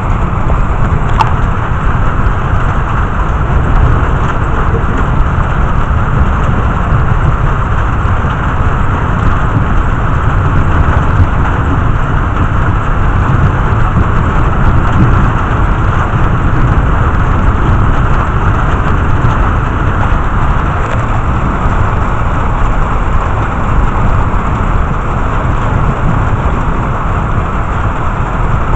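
Heavy rain falling steadily in a thunderstorm, with a deep, continuous low rumble underneath.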